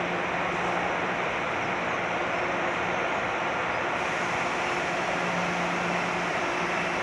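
Steady running noise of an electric metro train, with a faint hum that comes and goes and no distinct knocks or events.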